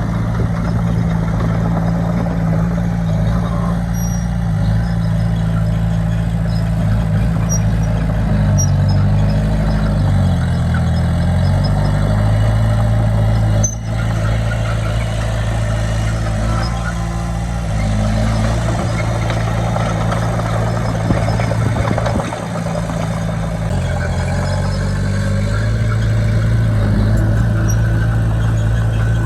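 Heavy diesel engine of earthmoving equipment running steadily, its pitch falling and rising again a few times as the throttle changes, with mechanical clatter in the background.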